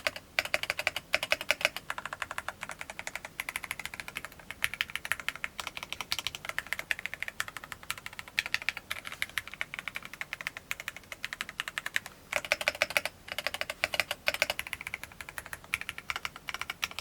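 Typing on an Angry Miao CYBERBOARD tenkeyless mechanical keyboard with TTC Gold Red linear switches. The keystrokes clack rapidly in runs broken by brief pauses.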